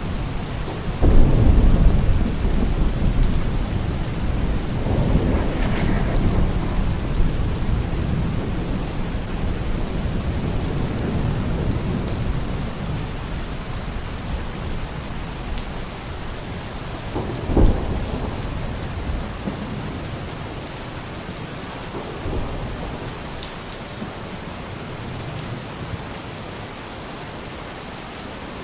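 Steady heavy rain in a thunderstorm. A loud roll of thunder comes about a second in and rumbles for several seconds, with a further rumble shortly after, a sharp crack a little past halfway and a fainter rumble later. The rain eases slightly toward the end.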